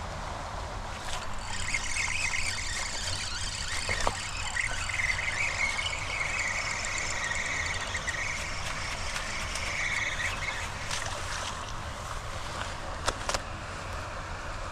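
Steady rush of floodwater at a storm drain, with a high, wavering squeal over it from about a second in until about eleven seconds. A few faint clicks come near the end.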